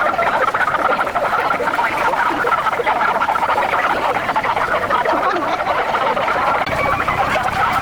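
A dense chorus of many frogs croaking continuously, their calls overlapping into a steady chatter.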